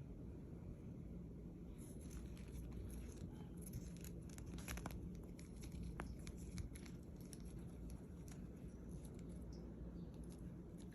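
Faint rustling, scratching and quick light taps, as a baby canary moves and pecks about, over a low steady hum.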